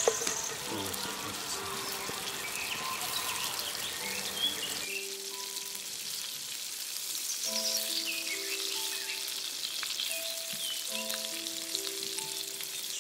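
Sliced vegetables sizzling in a pot as a wooden spatula stirs them. About five seconds in, the low rumble cuts off and soft background music of slow held notes plays over a high hiss, with birds chirping.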